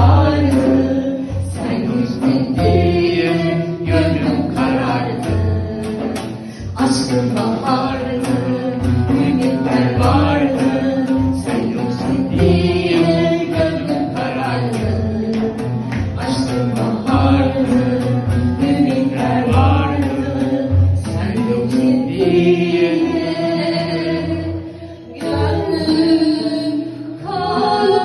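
Two women singing a Turkish song as a duet over instrumental accompaniment with a steady bass beat.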